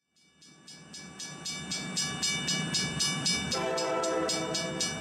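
Railway train running, fading in, with a steady rhythmic clicking of about three to four beats a second. A train horn sounds for over a second a little past halfway through.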